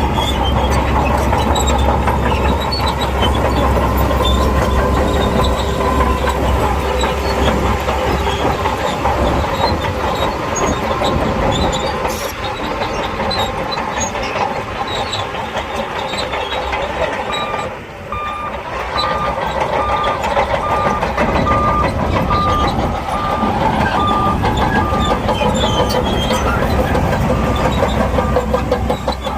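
SHANTUI crawler bulldozer running hard with its steel tracks clanking and rattling. Just past halfway a reversing alarm starts beeping at an even pace, about one and a half beeps a second, and keeps on nearly to the end.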